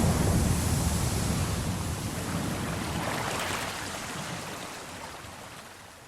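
Ocean surf: a wave breaks and its rush of water fades away over several seconds, with a smaller surge about three seconds in.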